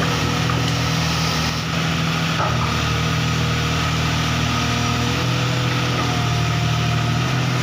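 Komatsu PC200-5 excavator's diesel engine running steadily, with a faint whine above the engine note.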